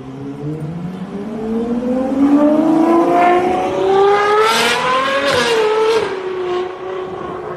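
Ferrari 812 Superfast's naturally aspirated V12 accelerating hard, its note rising steadily for about five seconds and getting louder. It gives a few sharp cracks around the top, then settles to a lower, steadier note that fades.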